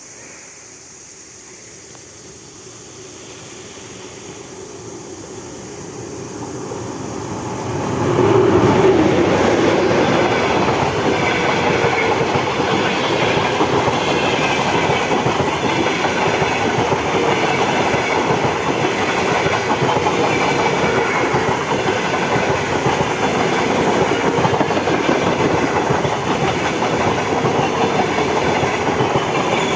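A train approaching, growing louder over about six seconds, then running past close by with a steady rush and the clickety-clack of wheels on rail joints.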